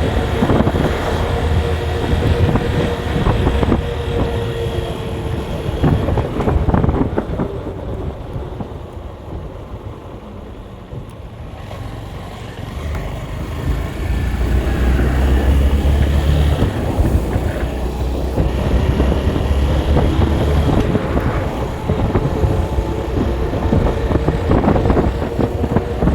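Steady road noise from a moving vehicle: engine and tyre rumble with wind buffeting the microphone. It eases off for a few seconds near the middle, then builds up again.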